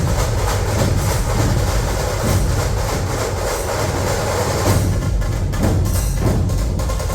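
Dhol-tasha ensemble drumming. Deep, booming dhol barrel drums play under rapid, sharp tasha strokes in one loud, dense, continuous rhythm.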